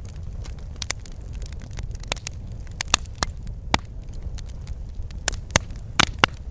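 Fireplace fire crackling: irregular sharp pops over a steady low rumble, with a cluster of louder pops near the end.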